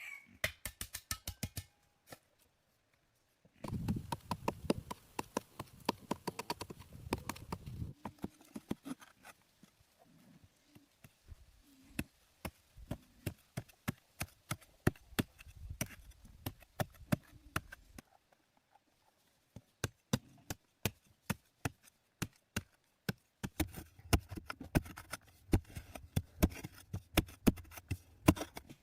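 Repeated sharp knocks and taps in quick, irregular runs, with short pauses between the runs.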